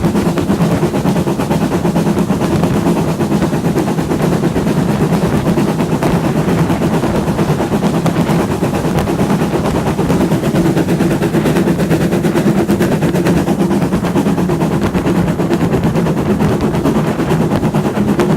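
Moving heritage steam train: a steady, loud, rapid rattling clatter over a low drone, with no pause or change.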